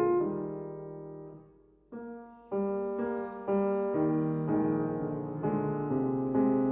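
Solo piano playing classical music. A chord is held and fades away, then new chords strike about two and two and a half seconds in, followed by a string of further notes.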